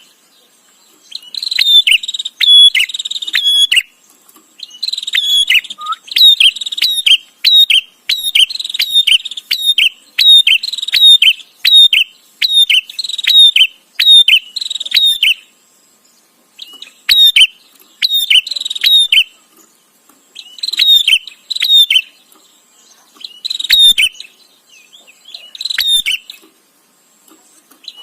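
Prinia (prenjak) calling in rapid bursts of sharp, high chirps, each burst lasting one to three seconds with short pauses between, over and over.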